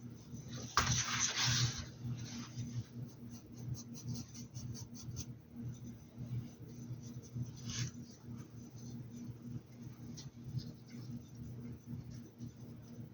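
Paintbrush strokes and small taps as paint is worked onto a hat. A brief louder rustle comes about a second in, all over a steady low hum.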